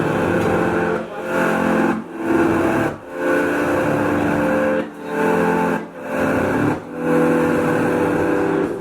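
Live rock band playing the closing bars of a song: held chords that change about once a second, with short breaks between them and no drums.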